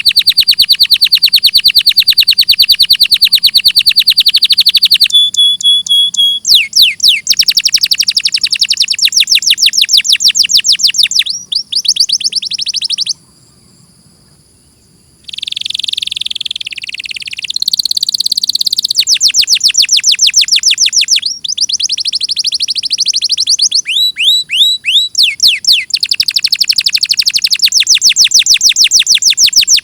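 Domestic canary singing: long rapid trills of quickly repeated high notes, one phrase after another, with a pause of about two seconds near the middle.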